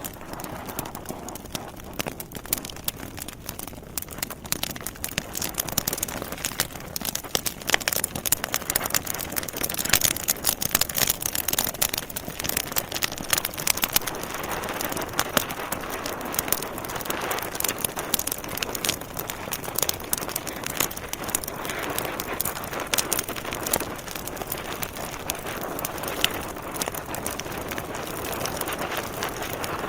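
Wood fire burning in a fireplace: dense, irregular crackling and popping of logs over a steady hiss, busiest about a third of the way in.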